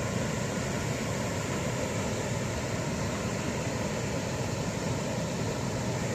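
Waterfall rushing: a steady, unbroken wash of falling water with no change in level.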